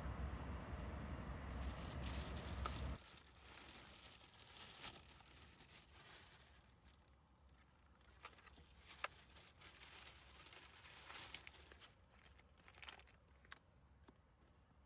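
Faint rustling and crinkling with scattered sharp clicks, after a low rumble that stops about three seconds in.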